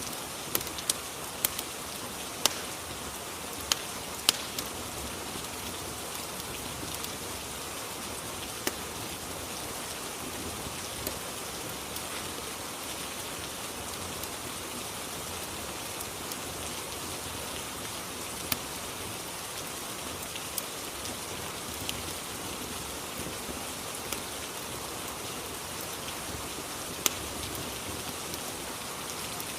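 Steady rainfall: an even hiss of rain with scattered sharp ticks, several in the first few seconds and then only now and then.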